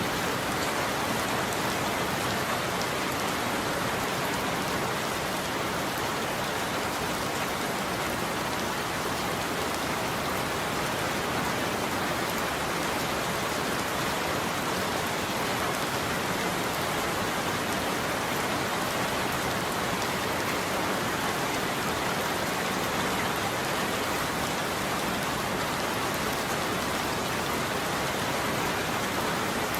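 Steady heavy rain falling on a roof: an even, unbroken hiss of drops with no thunder.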